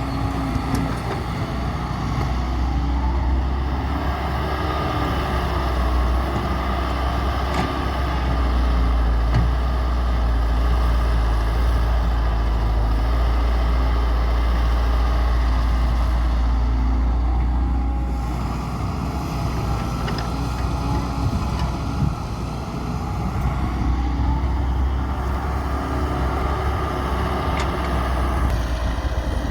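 Excavator's diesel engine running under working load, a steady low rumble that swells for about ten seconds in the middle and then eases, with a few short knocks.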